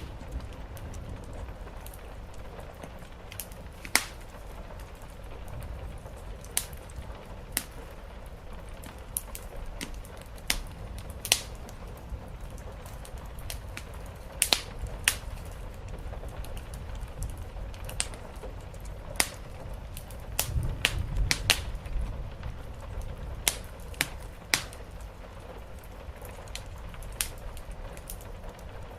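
Wood fire crackling, with irregular sharp pops and a busier cluster of them about two-thirds of the way through, over a steady hiss of rain on a roof and a low rumble.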